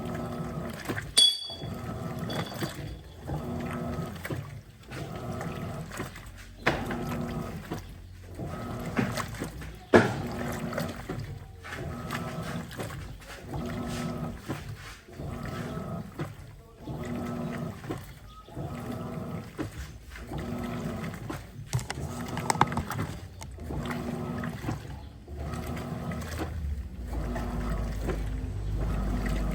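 Electrolux top-loading washing machine agitating a load at low water level: motor hum and water sloshing, the LPR16-type agitator reversing with a short break about every second and a half to two seconds. A sharp click sounds about a second in.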